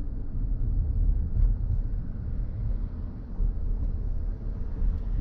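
Steady low road and tyre rumble of a BMW i4 M50 electric car in motion, heard from inside the cabin, with no engine note.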